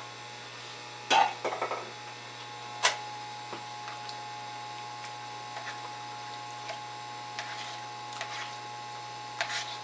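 Steady electrical mains hum, with a few light knocks and clicks of kitchenware against a cooking pot: a sharp knock about a second in followed by brief rattling, another sharp knock about three seconds in, and faint clicks near the end.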